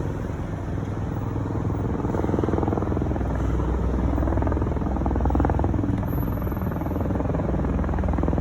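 A motor vehicle's engine running steadily under way, with rushing wind noise over it.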